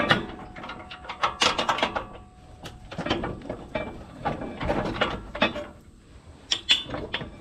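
Irregular metal knocks and clanks from work on a Kubota tractor's three-point hitch pins, a few sharp ones in quick clusters, as a slightly bent pin is worked loose.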